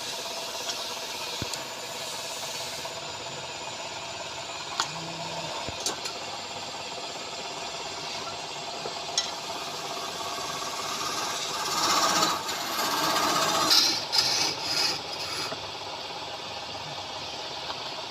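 Wood lathe running steadily, with a tool scraping against the spinning wood, louder and rougher from about twelve to fifteen seconds in.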